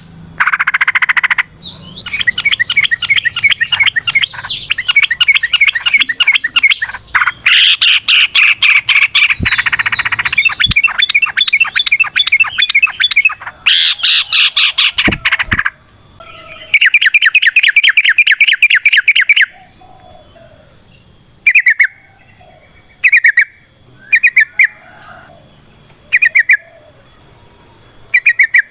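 Yellow-vented bulbul (trucukan) singing its fast chattering 'ropel' song. Dense runs of quick bubbly notes go on for about the first half, then a fast even trill, then short separate calls spaced a second or so apart.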